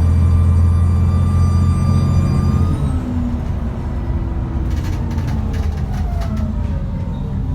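Cummins ISBe 6.7-litre diesel of an ADL Enviro400 double-decker bus pulling under load with a steady turbo whine. About three seconds in the engine eases off and the whine falls slowly in pitch, with a few clicks and rattles partway through.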